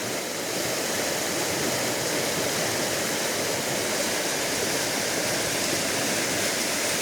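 Rain-swollen creek in flood, fast-moving water rushing with a steady, even noise. The creek is running at the highest level the owner has seen, after a night of heavy rain.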